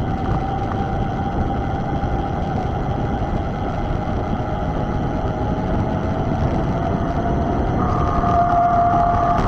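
Rushing noise from riding a mountain bike, with a steady hum that slowly drops in pitch; a second, higher hum joins near the end.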